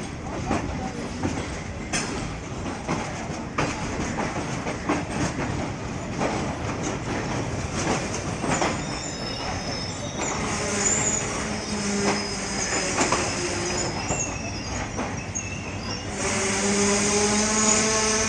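Passenger train rolling slowly into a station, its wheels clicking over rail joints. High-pitched wheel squeal joins about halfway through. Near the end a louder pitched tone with overtones starts and rises slightly.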